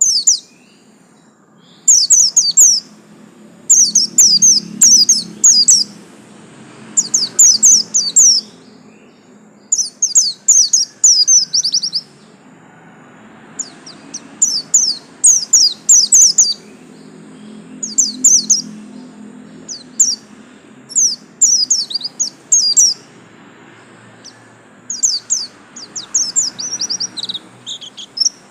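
Pleci white-eye (Zosterops, buxtoni form) giving its 'absen' call. Each call is a quick run of high, sharply falling chirps lasting about a second, repeated every couple of seconds.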